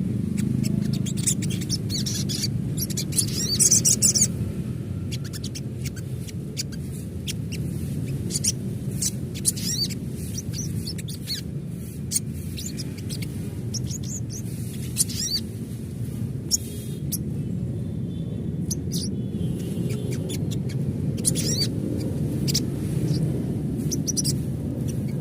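Sunbird calling: quick, thin, high chirps and twitters in scattered bursts, busiest about three to four seconds in, over a steady low background rumble.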